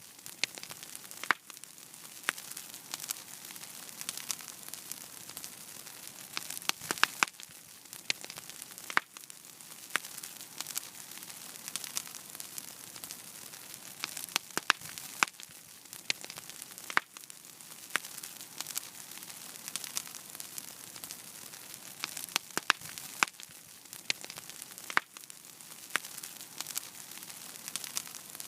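Fire crackling in a fireplace: a steady soft hiss with irregular sharp pops and snaps, a few of them much louder than the rest.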